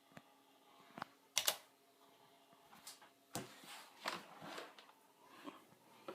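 Faint, scattered clicks and taps of keys being pressed on a computer keyboard, a few strokes spread irregularly, the firmest about a second and a half in and around three and a half to four and a half seconds in.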